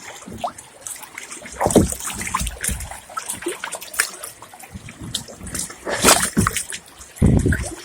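Water splashing and sloshing in uneven bursts, as of someone wading through cold, shallow floodwater, with a trickle between splashes.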